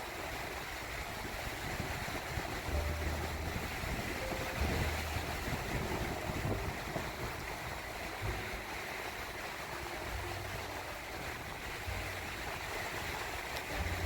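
Gentle surf washing onto a sandy beach, a steady wash of waves, with wind buffeting the microphone in low rumbling gusts every few seconds.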